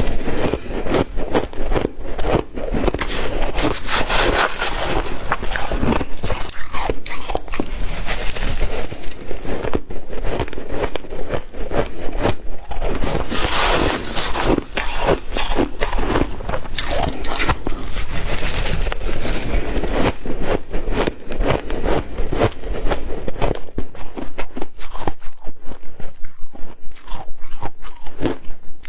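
A person biting and chewing white ice close to the microphone: dense crunching and crackling. Near the end it settles into a steady chewing rhythm of evenly spaced crunches.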